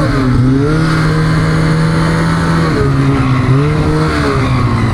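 Snowmobile engine running under throttle, its pitch climbing about a second in, dropping near the middle, then rising and falling again as the throttle is worked, over a steady rush of track and snow noise.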